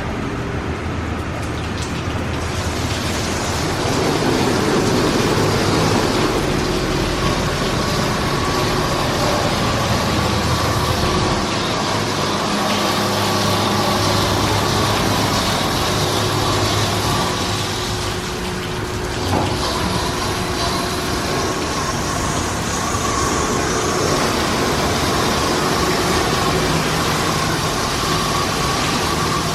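PDQ ProTouch Tandem automatic car wash machinery running: a steady mechanical noise with a faint steady hum, louder from about four seconds in and dipping briefly near the middle.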